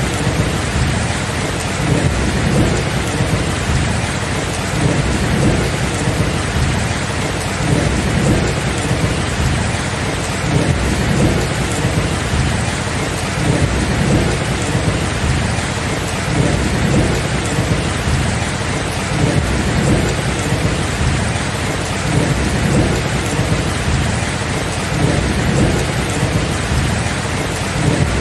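Steady heavy rain falling, with a continuous low rumble of thunder that swells and fades every second or two.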